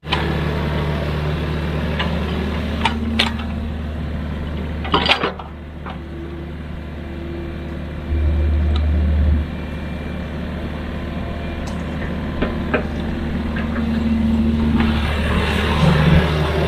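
Heavy diesel machinery running steadily with a low engine drone that swells for about a second partway through, punctuated by a few sharp metallic clanks and knocks.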